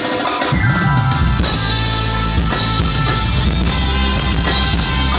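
A band's music comes in about half a second in: drum kit with bass drum, bass guitar and guitar playing a steady groove, loud through the sound-check PA.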